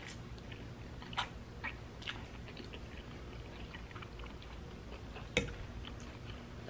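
A person chewing a mouthful of spaghetti with closed lips: soft, wet mouth clicks now and then, with one sharper click about five and a half seconds in.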